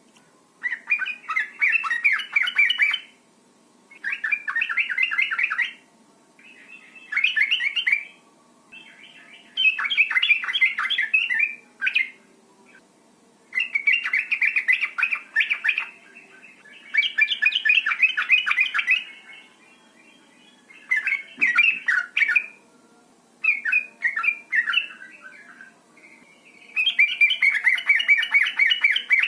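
Female sooty-headed bulbul (trucukan) giving rapid chattering 'ngecuk-cuk' calls of the kind given in breeding condition, in about nine bursts of one to two and a half seconds with short pauses between.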